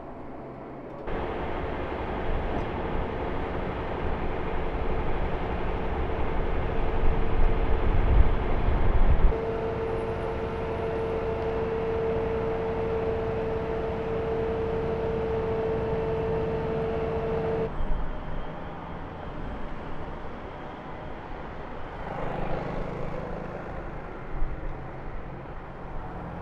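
Vehicle engines and street traffic in several clips cut together, with a steady engine hum through the first two thirds and a brief swell in engine sound near the end.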